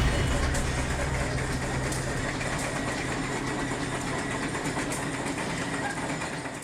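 Rolls-Royce Meteor 27-litre V12 tank engine running steadily at low revs, a deep even rumble that eases slightly in level toward the end.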